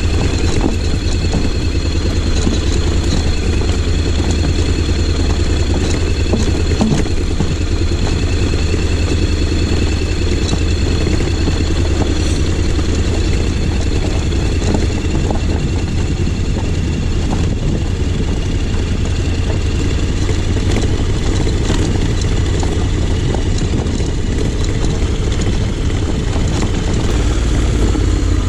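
2020 Honda X-ADV 750's parallel-twin engine running steadily, with scattered sharp clicks and knocks over it.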